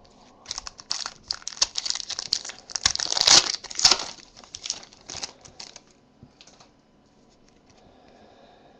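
Foil wrapper of a trading card pack crinkling and tearing as it is opened by hand, loudest about three to four seconds in, then stopping about six seconds in.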